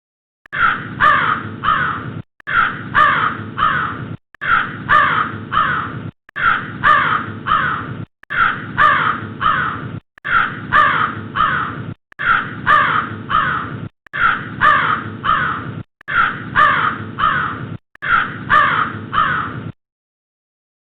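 Crow cawing in bouts of three caws, the same bout repeating about every two seconds, ten times over.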